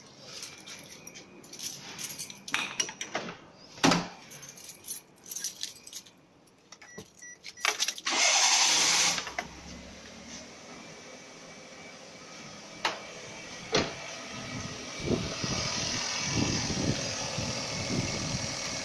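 Keys and small parts clicking and rattling, then about eight seconds in a car's starter cranks for about a second and the engine catches and settles into a steady idle, started off a supercapacitor jump starter.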